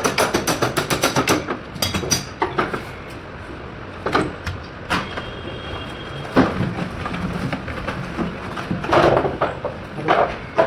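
Tools knocking and clanking on air conditioner parts during disassembly: a quick run of taps at the start, then single knocks every second or two.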